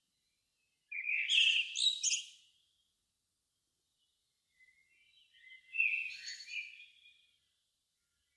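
A songbird singing two short, complex phrases a few seconds apart, high-pitched and warbling, with quiet between them.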